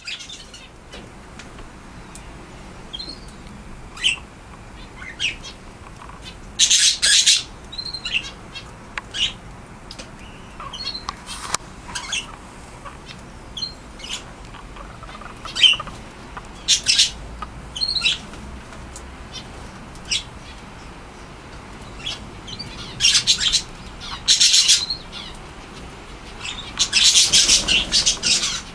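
Budgerigars chirping and chattering: many short high chirps broken by several louder, scratchy squawking bursts.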